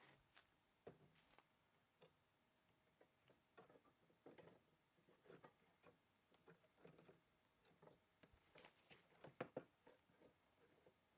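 Near silence with faint, irregular small taps and clicks, a few slightly louder ones close together about nine seconds in.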